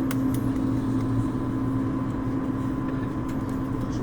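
Steady hum inside the cabin of an Airbus A220 on the ground, with a few faint clicks near the start and again about three seconds in.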